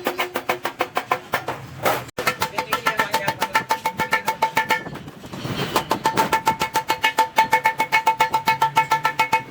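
Rapid hammer blows on stainless steel sheet, about six a second, each ringing with a metallic tone. The blows break off briefly about two seconds in and soften for a moment around five seconds.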